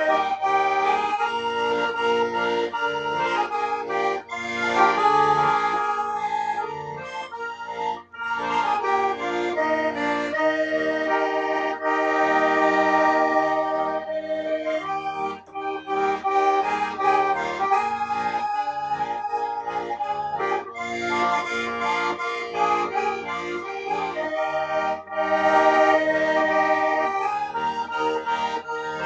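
Accordion music: a melody of held notes over a pulsing bass accompaniment, playing without a break apart from brief dips.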